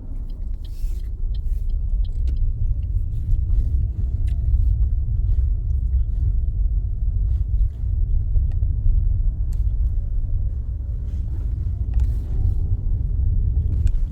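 Car's engine and road noise heard inside the cabin as a steady low rumble while driving, growing louder over the first couple of seconds as the car pulls away.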